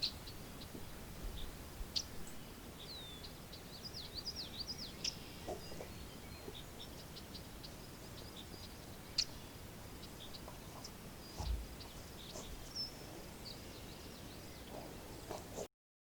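Small birds chirping with short, scattered rising and falling calls over a faint steady outdoor hiss, with a brief low thump about eleven seconds in.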